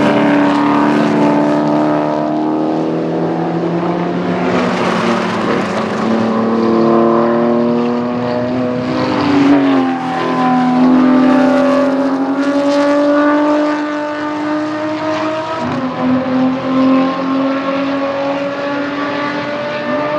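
SCCA Touring 2 and American Sedan race cars' engines running hard at high revs, their pitch drifting slowly with a sudden change in pitch near the end, as at a gear shift.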